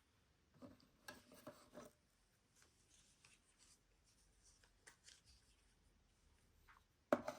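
Faint handling noises of a plastic G-Shock watch being turned over in the hands: soft rubbing and a few light clicks, with a sharper knock just before the end.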